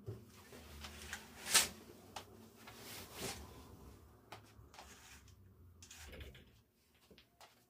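Household handling sounds: scattered clicks and knocks, one louder knock about a second and a half in, over a low hum that stops about six seconds in.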